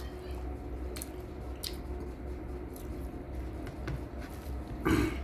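Wet squishing and small smacking clicks of someone eating rice and curry by hand and chewing, over a steady low hum, with one short, louder mouth sound near the end.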